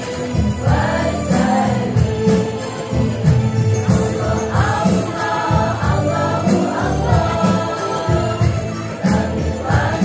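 Women's choir singing an Islamic devotional song in unison, over a steady percussion beat.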